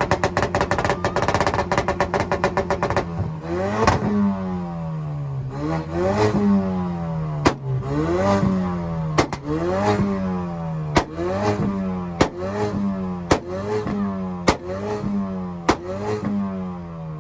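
A tuned car's engine held against a two-step launch limiter, crackling in a rapid machine-gun stutter for about three seconds. It is then revved up and down about a dozen times, roughly once a second, with a sharp exhaust pop or bang at each peak.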